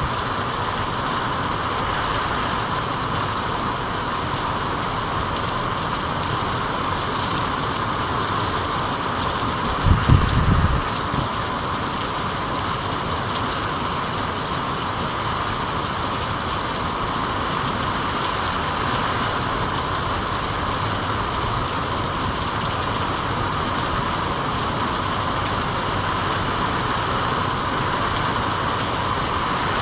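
Steady rain, an even hiss that holds at the same level throughout. About ten seconds in comes a brief low rumble lasting under a second.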